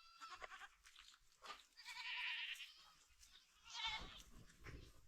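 Goats bleating: several separate calls from the herd, the loudest about two seconds in and a wavering one near four seconds.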